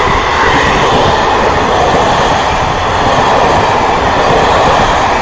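ONCF passenger coaches rolling past at close range: a loud, steady noise of steel wheels running on the rails.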